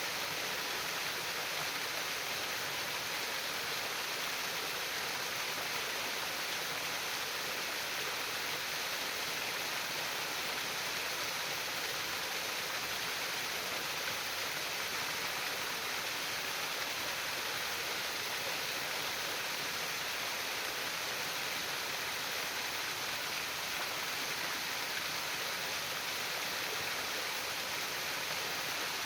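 Water running and babbling in a stream, a steady, unbroken rush of splashing with no pauses or changes.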